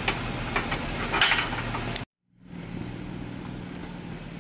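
Jeep Wrangler engine idling on a rocky off-road trail, with a few sharp knocks and a short scrape in the first two seconds. The sound cuts out briefly about two seconds in, then another Jeep's engine idles steadily.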